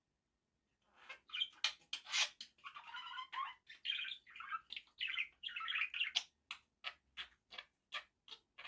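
Pet budgerigar chattering and warbling, starting about a second in, then breaking into a quick run of short sharp chirps, about three a second, near the end.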